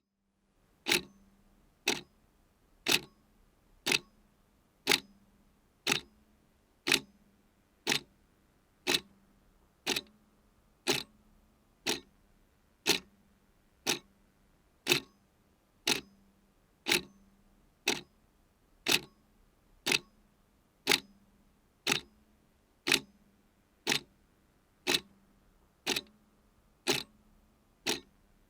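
Clock ticking steadily at one tick per second, alternate ticks a little louder than the ones between.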